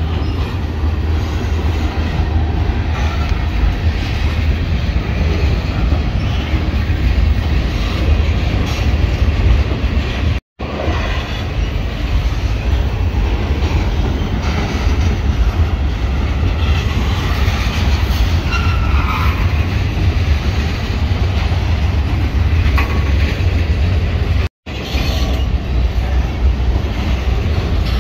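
Freight train cars rolling past at close range: a steady rumble and clatter of steel wheels on rail. The sound cuts out twice for an instant.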